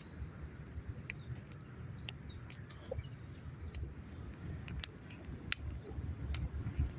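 Outdoor ambience: a steady low rumble with scattered sharp clicks and a few faint bird chirps.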